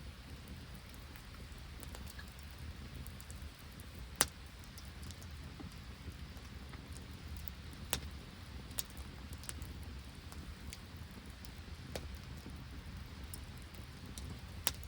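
Open wood fire crackling, with scattered ticks and a few sharp pops, over a steady low rumble of falling rain and sleet.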